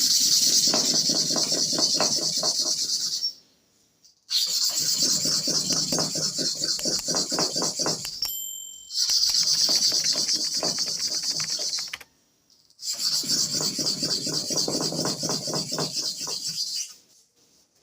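Steel clipper blade rubbed quickly back and forth on a kerosene-oiled sharpening stone: a hissing scrape of fast strokes, in four bouts of a few seconds each with short pauses between.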